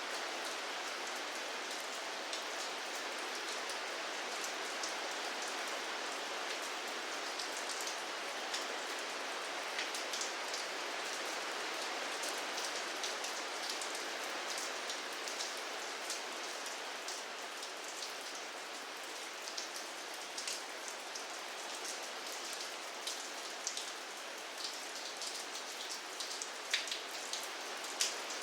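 Steady rain falling, an even hiss with the close ticks of individual drops striking a surface; a few louder drop hits stand out near the end.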